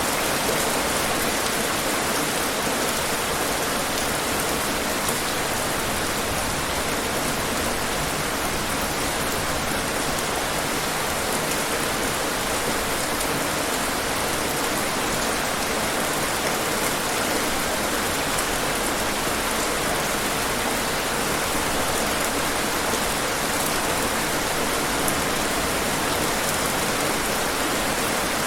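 Steady, heavy-sounding rain: an even hiss with faint ticks of single drops, unchanging throughout.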